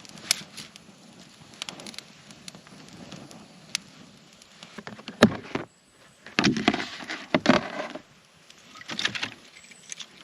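Campfire crackling with scattered sharp pops, then a loud knock about five seconds in followed by bursts of rustling and clattering handling noise.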